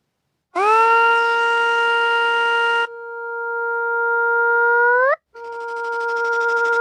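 Synthesized tones from the Desmos graphing calculator: a buzzy horn-like tone scoops up into a steady pitch about half a second in, goes on with a hissy noise for two seconds, then holds alone before sweeping sharply upward and cutting off a little after five seconds. A second steady tone starts half a second later.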